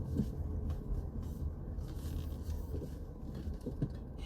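Steady low rumble of road noise inside a moving car's cabin, with a few faint rubbing and scraping sounds.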